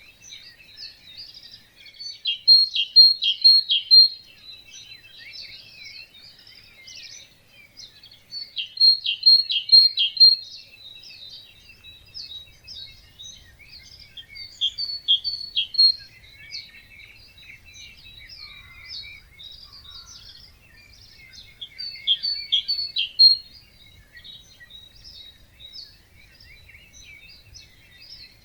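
Several birds singing together in a dawn chorus, many overlapping chirps and whistles. One louder bird repeats a short song of quick, rapid notes four times, about every six seconds.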